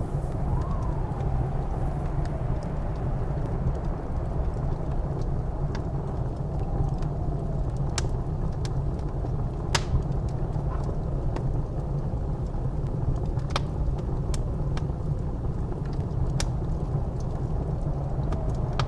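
Blizzard wind blowing with a steady low rumble and a faint howl that rises and falls, while a wood fire in a fireplace crackles with a few sharp pops.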